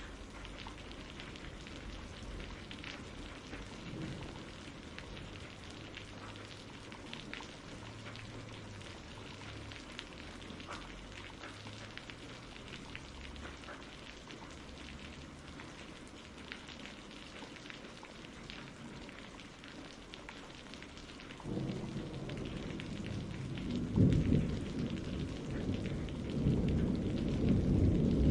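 Steady rain with scattered drops tapping. About three quarters of the way in, a low rumble of thunder starts and swells, rolling loudest near the end.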